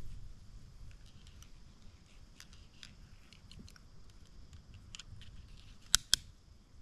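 Light, scattered crackles and clicks of camping gear being handled and packed into a tent, with two sharp clicks close together about six seconds in.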